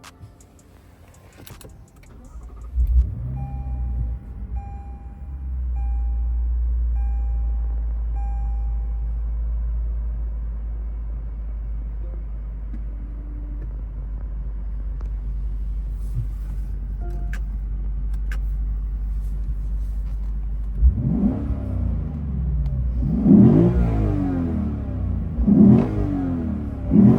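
Lexus IS 500 F Sport's 5.0-litre V8 starting up about three seconds in, flaring briefly and settling into a steady idle; near the end it is revved four times, each rev rising and falling back. A series of short chime beeps sounds just after the start.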